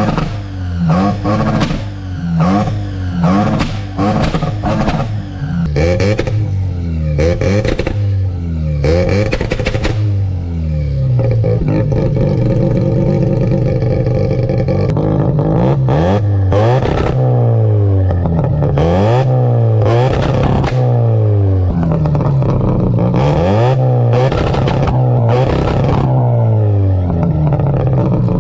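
Ported Mazda 12A rotary engine on a Holley 650 carburettor, running through long-tube headers with no mufflers, being revved. Quick blips come in the first ten seconds or so, then a higher rev is held for a few seconds, then the revs rise and fall about once a second. Sharp cracks come between many of the revs.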